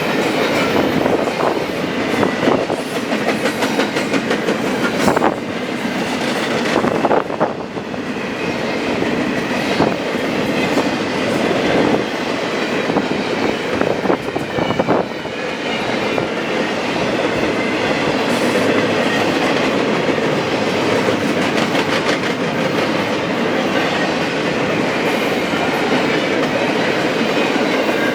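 A train's cars rolling past, steel wheels clicking over the rail joints over a continuous rumble. The clicks are thickest in the first half, and the roll settles to a steadier sound after.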